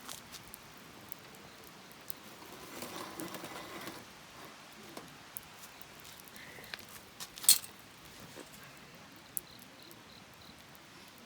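Wood campfire crackling: scattered pops and snaps, the loudest about seven and a half seconds in, with a soft rustle about three seconds in.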